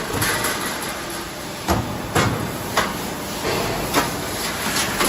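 Fire damper frame production line machinery running with a steady noise, and four sharp knocks spread through it.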